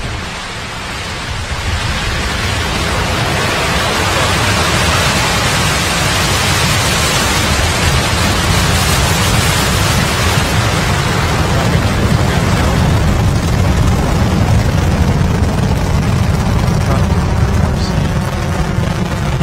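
Roar of a Soyuz-2.1v rocket lifting off. It builds over the first couple of seconds, then holds as a loud, steady rumbling roar.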